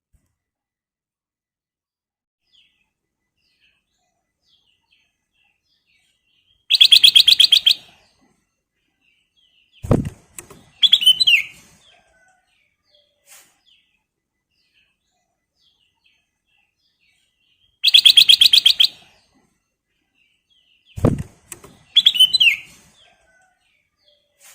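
Black-crested bulbul calls: a loud, rapid rattling trill about a second long, followed a few seconds later by a short low thump and a brief phrase of falling whistled notes. The whole sequence repeats once, identically, about eleven seconds later.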